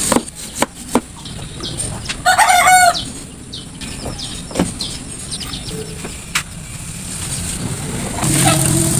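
A chicken calling once, a short wavering call about two and a half seconds in, over scattered sharp knocks and taps. Another pitched call comes near the end.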